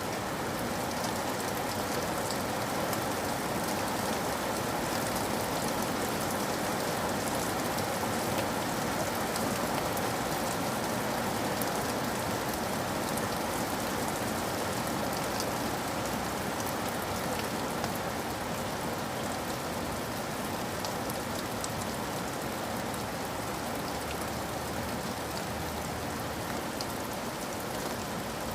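Steady rain falling, an even hiss with the fine ticks of single drops scattered through it.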